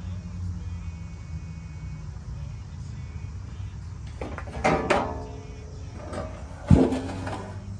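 Two creaks over a steady low hum: a drawn-out one about halfway through and a sharper, louder one near the end, like a hinge or sheet metal being worked.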